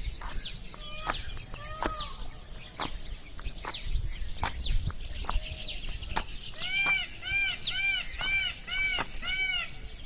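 Wild birds chirping: many quick, downward-sliding chirps, and from about seven seconds a series of six arched, rising-then-falling calls, about two a second.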